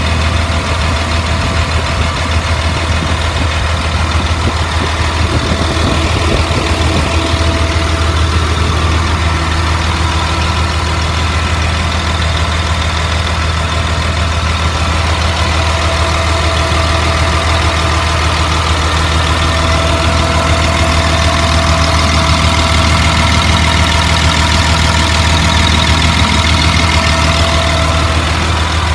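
A 2003 Blue Bird All American school bus's diesel engine idling steadily. It is fully warmed up after about an hour of running.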